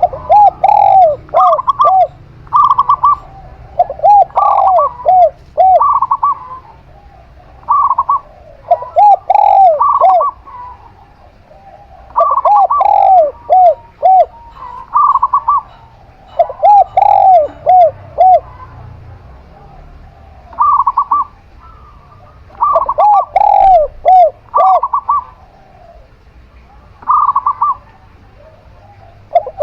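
Zebra dove (perkutut) and spotted dove (tekukur) cooing in turn and overlapping. Their phrases repeat every one to three seconds: one is a lower run of quick, rolling notes, the other a higher run of short clipped notes.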